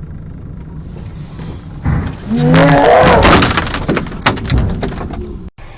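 Car collision heard through a dashcam: steady road noise, then about two seconds in a sudden loud burst of crunching impacts, with a short wavering tone in it, that dies away over the next few seconds.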